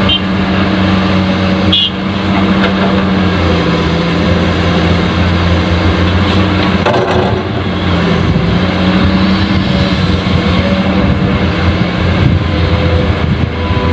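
Truck engine running steadily with a low hum. Two brief high chirps come near the start.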